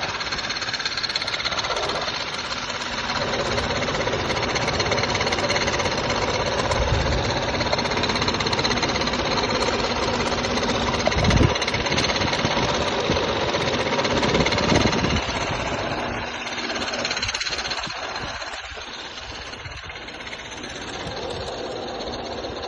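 Seat Ibiza Cupra's 1.4 TSI engine running with a fast, even clatter, the weird noise its owner is trying to trace. It grows somewhat quieter in the last few seconds.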